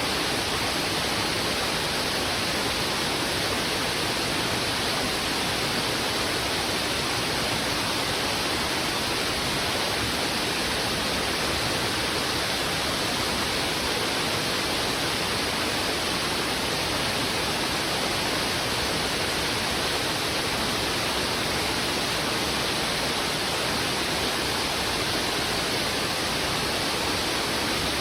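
Heavy river water rushing over rocks: a steady, even hiss of flowing water that does not change.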